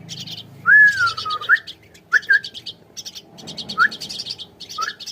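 Young birds calling in runs of rapid high chirps, about eight to ten a second. A louder whistled note dips and rises about a second in, and short upward whistles follow later.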